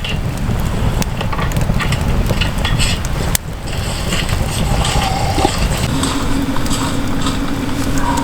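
Wood fire crackling, with scattered sharp pops over a low rumbling noise; the sound cuts abruptly about three seconds in, and a steady low hum joins from about six seconds in.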